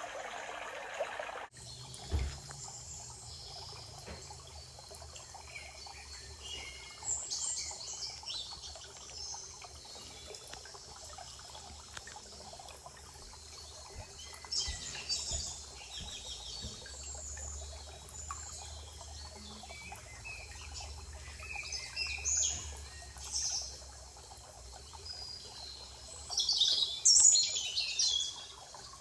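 Songbirds chirping and calling in short scattered phrases over a soft, steady hiss, with the loudest burst of song near the end. For the first second and a half a louder, even rush of noise plays, then cuts off suddenly.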